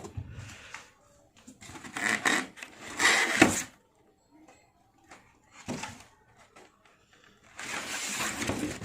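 Handling noises from unpacking a pressure washer: rustling and knocking of packaging and plastic parts in several bursts, the loudest a little after three seconds in and another longer stretch near the end.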